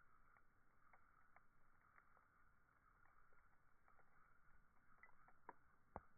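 Campfire crackling faintly: irregular small pops and snaps of burning wood over a steady low hiss, with one sharper pop near the end.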